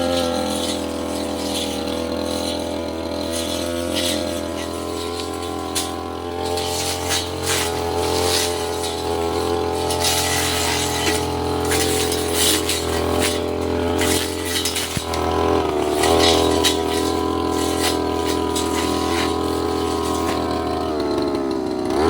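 Petrol brush cutter running at high speed, its blade cutting undergrowth with scattered clicks and clatters as it strikes stems and debris. The engine note wavers under load about two thirds through and sags near the end before picking up again.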